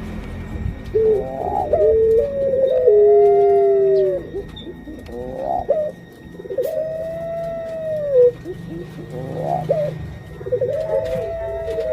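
Pelung-type puter (Barbary) dove cooing. Three calls, each a quick stuttering run of short notes followed by one long, arched coo.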